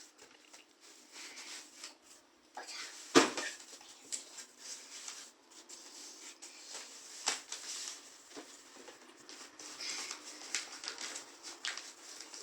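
Scattered light knocks and clatter in a small room, with one sharp knock about three seconds in, another about seven seconds in, and a run of lighter ticks near the end.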